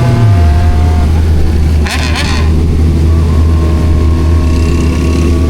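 Suzuki Bandit 1250's inline-four engine running, its revs dropping in the first half second and then holding steady. A short burst of noise about two seconds in.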